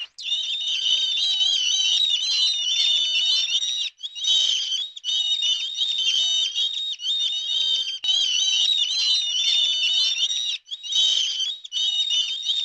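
Many small birds chirping at once in a dense, continuous high-pitched chorus, with brief breaks about 4, 8 and 11 seconds in.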